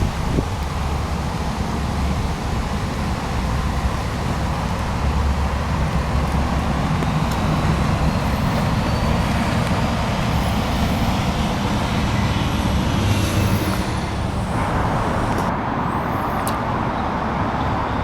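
1966 Chevrolet C-10 pickup's 350 V8 engine running steadily, with a change in the sound's texture about three quarters of the way through.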